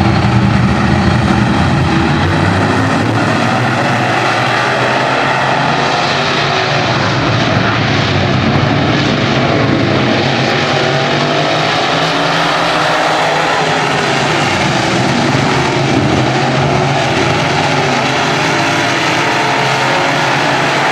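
Several racing engines running hard together, their pitches rising and falling as the vehicles lap and pass.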